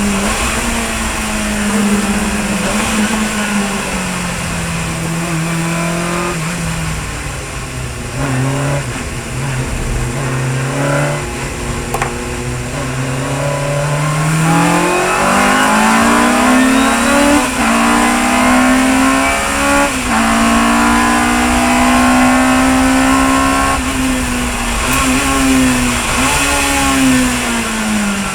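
Chevron B19 sports racing car's engine at full racing effort. It winds down in pitch over the first several seconds, stays low, then revs hard and climbs steeply before holding high with brief dips at gear changes, and winds down again near the end as the car slows.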